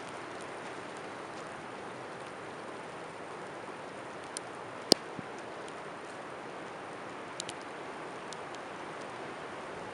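Blizzard wind and blowing snow in a forest, a steady hiss, with scattered sharp ticks and one louder click about five seconds in.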